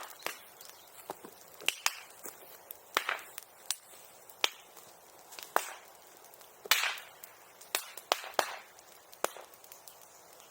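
Bamboo burning in a bonfire: irregular sharp pops and cracks, some with a brief crackle after them, as the bamboo bursts in the heat. A denser run of crackling comes about seven seconds in.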